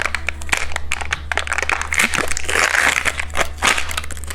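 Plastic candy packaging being handled and opened, crinkling and rustling with many small sharp crackles that are densest about two to three seconds in.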